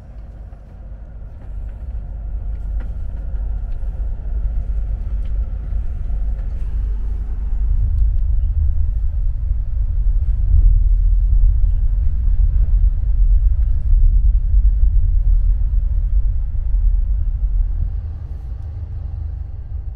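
Low rumble of a conventional sleeper train running on the rails, heard from inside the carriage. It builds over the first few seconds, is loudest through the middle, and eases off near the end.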